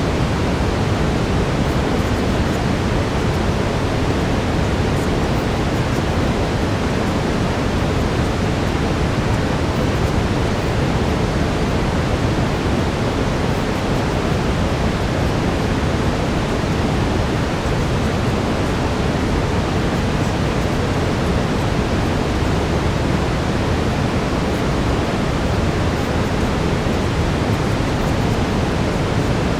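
Steady brown noise: a constant, even rushing hiss weighted towards the low end, like a distant waterfall, with no change in level.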